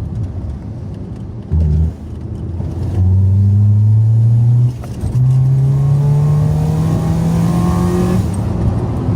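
Citroën Saxo VTR's 1.6-litre eight-valve four-cylinder engine accelerating hard with its airbox disconnected, so the open intake lets the induction noise through. A short blip of revs about a second and a half in, then a pull rising in pitch, a gear change about five seconds in, and a second rising pull that stops shortly before the end.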